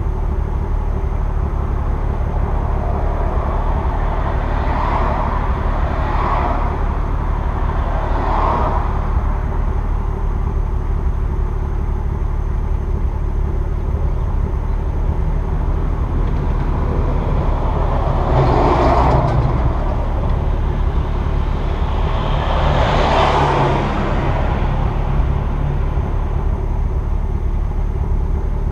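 2002 Nissan Maxima's 3.5-litre VQ35DE V6 idling steadily while it warms up after a cold start, its raspy exhaust note coming through equal-length headers, the stock catalytic converter and a straight pipe in place of the resonator. Short swells of hiss rise over the idle about five, six and eight seconds in, and twice more in the last ten seconds.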